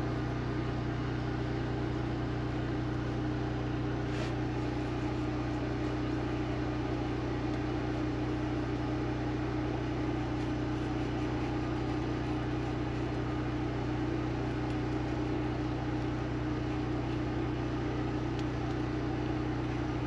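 Generator engine running at a steady hum, with one faint click about four seconds in.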